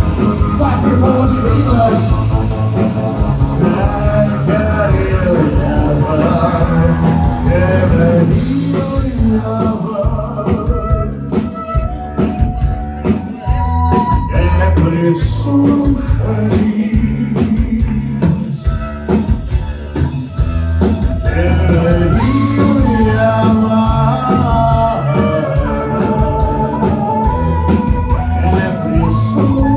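Rock band playing live, with a singer's voice over the band and a steady beat throughout.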